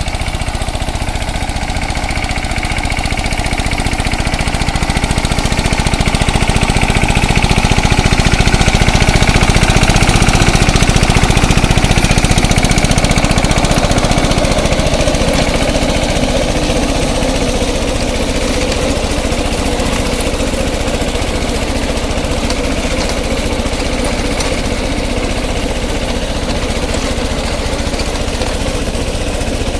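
DK Champion 16 HP mini tractor's engine running continuously, growing louder toward the middle and easing off again.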